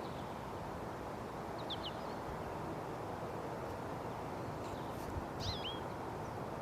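American goldfinch calling: two short runs of quick, rising and falling whistled notes, one near two seconds in and one about five and a half seconds in, over steady wind rumbling on the microphone.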